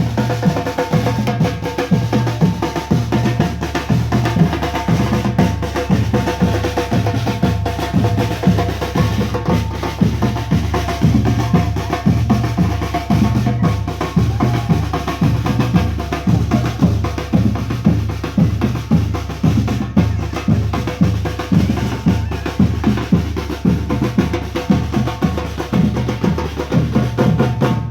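Parade marching band playing: bass drum and snare drums beat a steady, regular march rhythm, with held instrument tones over it.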